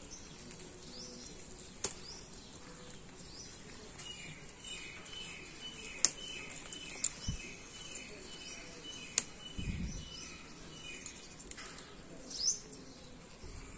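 A bird calling in the background, repeating a short falling note over and over for about five seconds in the middle. A few sharp snaps of onion flower stalks being broken off by hand, and two soft thumps of handling.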